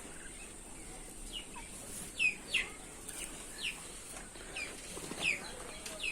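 Chickens calling with short, high-pitched peeps that fall in pitch, about one a second.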